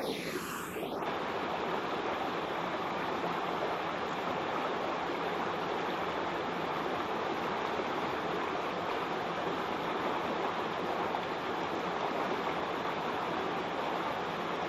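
Waterfall: a steady rush of falling water. In the first second a short sweeping tone falls and then rises over it.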